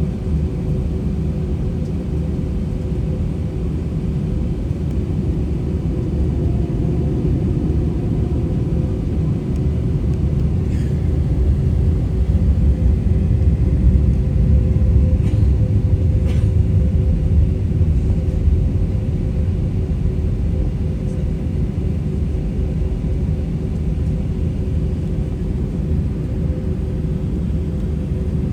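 Airbus A320-200 engine and airflow noise inside the passenger cabin: a steady low rumble with two steady hums, swelling slightly around the middle, with a few faint clicks.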